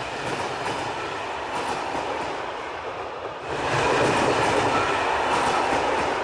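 A train running on rails, getting louder about three and a half seconds in.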